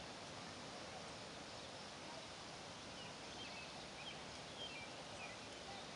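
Quiet lakeside evening ambience: a steady faint hiss, with a few short, high bird chirps about halfway through.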